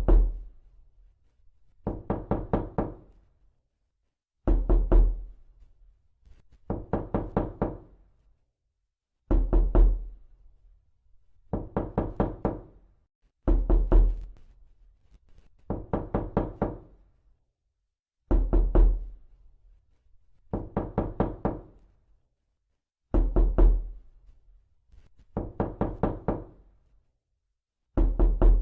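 Knocking in a steady loop: a quick run of about half a dozen raps roughly every two seconds, heavier, deeper runs alternating with lighter ones.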